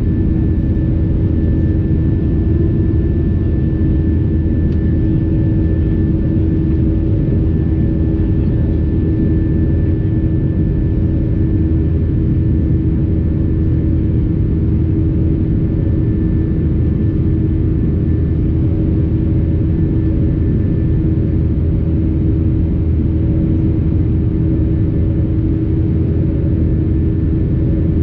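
Airbus A320 cabin noise from a window seat over the wing: the jet engines run steadily under a low rumble, with a few constant hums on top. The sound holds even throughout.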